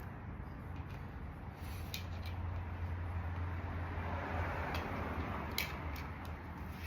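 Light clicks and a scraping rustle of hand tools working on a scooter engine's cylinder head, over a steady low hum.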